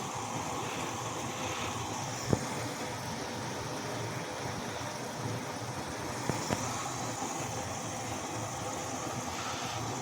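Bauknecht WAS 1400 washing machine running with a steady mechanical noise, with a sharp click about two seconds in and two lighter knocks a little past halfway.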